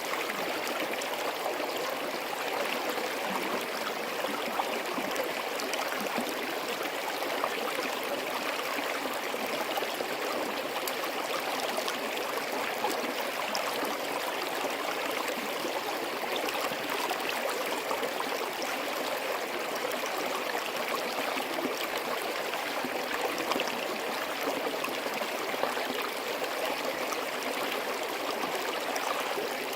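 Small forest stream flowing steadily over rocks, babbling and gurgling without a break.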